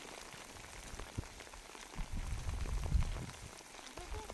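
Rain falling steadily, a dense run of small drop ticks, with a low rumble swelling for about a second a couple of seconds in.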